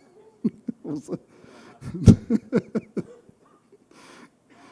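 Only speech: a few short, indistinct spoken sounds for about the first three seconds, then quiet.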